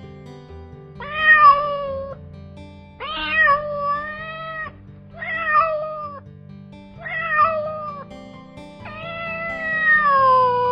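Domestic cat meowing five times, drawn-out meows about a second apart, the last one the longest, over soft guitar background music.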